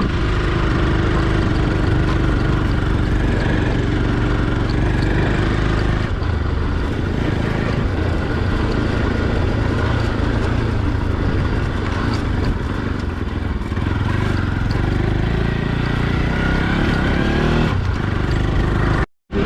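Motorcycle engine running steadily while riding. The sound cuts out for a moment near the end.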